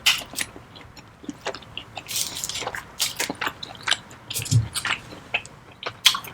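Close-miked chewing of a piece of steak: irregular wet clicks and smacks of the mouth.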